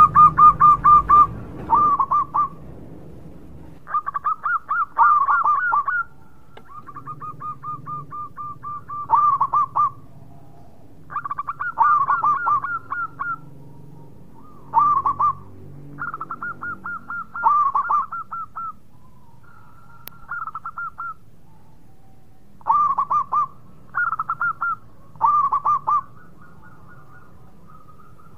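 Zebra dove (perkutut) cooing: repeated phrases of rapid staccato notes, each phrase lasting about one to two seconds and following one another with short pauses.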